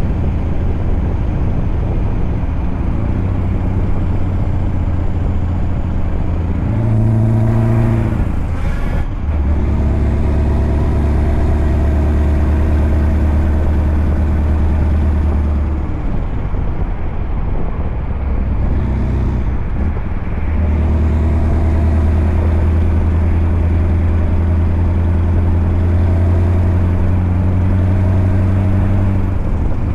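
Scania truck's V8 diesel engine running under way with a deep, steady note. About eight seconds in the note climbs and then breaks off, after which it settles low and steady. Between about 16 and 20 seconds it drops away and then comes back.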